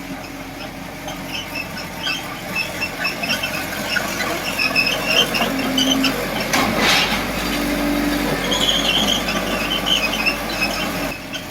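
D20P crawler bulldozer working: its running gear gives repeated high-pitched squeals and squeaks over a steady engine note, with a short rush of noise about seven seconds in.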